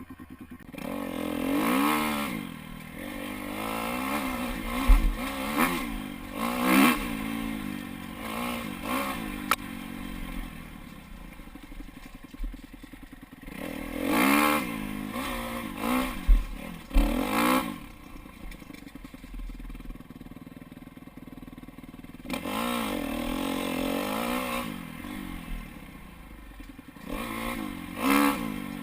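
Dirt bike engine revving up and down as it is ridden, the pitch climbing and dropping with each burst of throttle and easing off between bursts, with rattling from the bike over rough ground.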